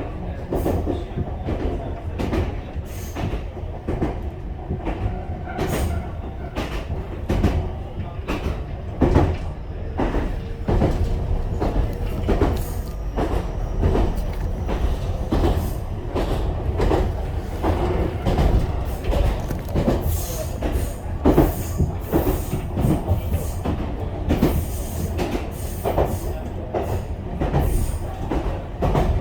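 Ichibata Electric Railway train running along the line, heard from inside the carriage: a steady low rumble with frequent clacks of the wheels over the rail joints.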